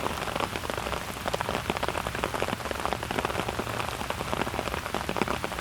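Steady rain, a dense patter of individual drops striking surfaces.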